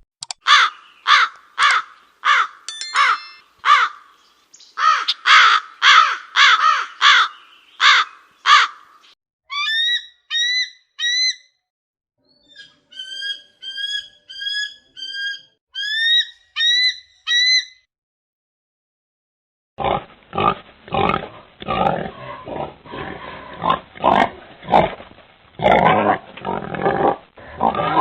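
A string of animal calls from different animals. First comes a run of short, harsh calls about two a second for roughly eight seconds. Then come high, pitched chirps for several seconds, and after a short pause a quick series of rough grunting calls to the end.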